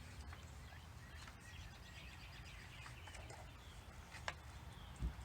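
Faint birds chirping in the background over low steady ambient noise, with a single sharp click a little after four seconds in.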